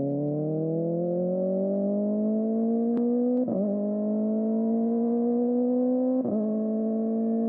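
Kawasaki ZX-4RR's inline-four engine through a Trick Star Ikazuchi slip-on exhaust, accelerating with its pitch climbing. There are two quick upshifts, about halfway through and near the end, each a short dip in pitch before it climbs again.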